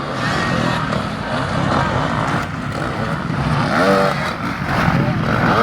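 Motocross dirt bike engines running and revving, with a voice heard briefly about four seconds in.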